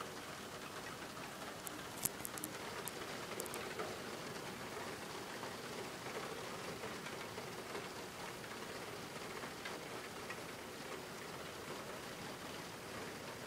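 Steady rain falling during a thunderstorm, an even hiss, with a cluster of sharp ticks about two to three and a half seconds in.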